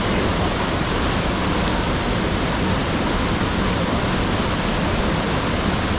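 Waterfall pouring: a steady, even rush of falling water, loud and unbroken.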